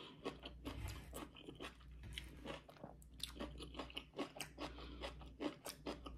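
Person chewing a mouthful of salmon and crisp tossed salad close to the microphone, a rapid, irregular run of small crunches.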